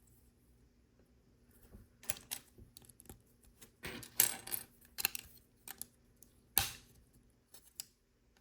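Small plastic LEGO pieces clicking and rattling as they are handled and fitted together, a scatter of short sharp clicks about two seconds in, with the loudest snaps around four and six and a half seconds in.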